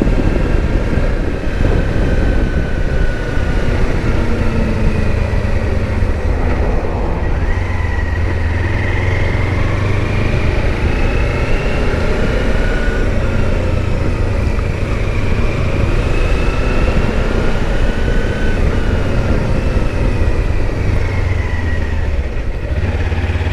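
Kawasaki Versys-X 300 parallel-twin engine running steadily under way with wind and road noise, its pitch slowly rising and falling as the bike changes speed.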